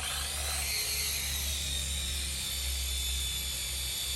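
Small toy quadcopter drone's motors spinning at speed with a steady, high-pitched whine; the pitch rises briefly in the first second, then holds.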